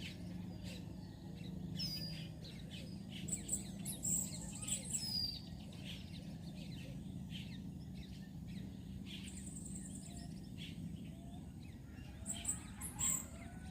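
Birds chirping and calling, many short chirps and quick whistles, over a steady low hum of outdoor background.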